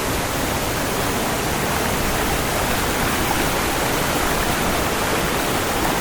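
Waterfall and fast-flowing stream water rushing in a loud, steady roar.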